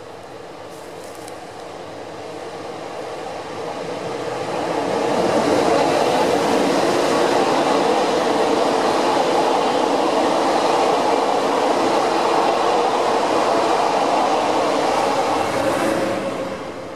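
Locomotive-hauled passenger train approaching and passing close at speed, a rush of wheel and air noise. It builds over the first five seconds, holds steady while the coaches go by, then drops away near the end.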